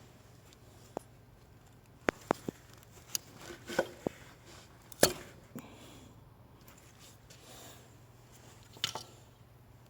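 Scattered clicks and knocks from hand work on engine parts: a few light taps over the first few seconds, a louder knock about five seconds in, and one more near the end, over a faint steady hum.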